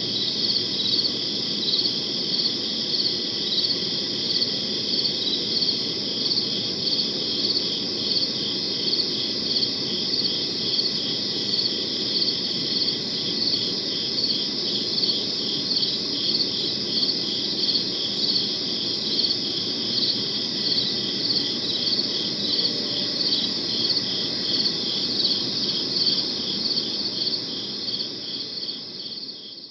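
Crickets chirping steadily in a dense chorus, with a regular pulse of about one and a half chirps a second over a faint low background hiss. The sound fades out in the last second or two.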